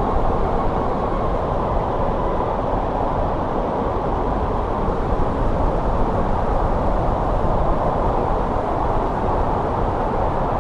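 Steady winter wind blowing in a snowstorm: an even, muffled rushing with no gusts or breaks.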